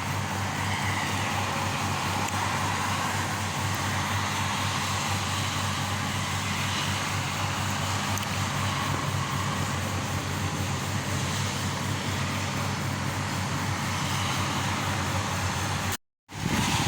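Steady rush of heavy rain and strong wind, with a low hum underneath. It cuts off suddenly near the end.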